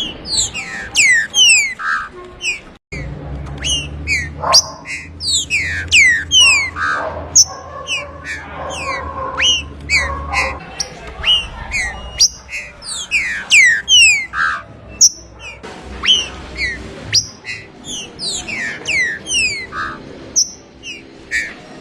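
Green-winged saltator (trinca-ferro) singing: quick runs of sharp whistled notes, each sliding steeply down in pitch, repeated again and again.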